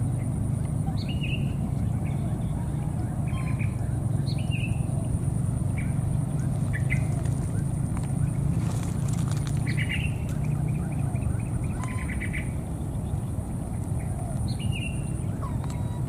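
Outdoor ambience of scattered short bird chirps, with a quick trill about twelve seconds in, over a steady high-pitched buzz and a low steady rumble.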